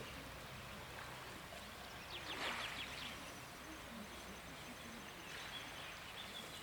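Faint outdoor ambience with small bird calls: a quick chattering burst about two seconds in, a thin high trill running through the middle, and a few short high calls near the end.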